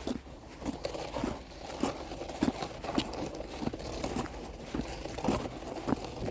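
Footsteps crunching through fresh snow at a steady walking pace, about one and a half steps a second.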